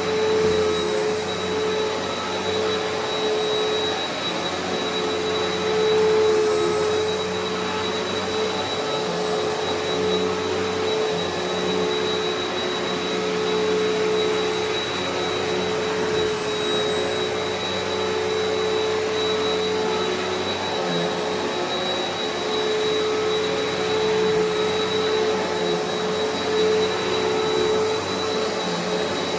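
Eureka Altima upright vacuum cleaner running steadily over carpet, its motor giving a continuous whine over a rushing air sound.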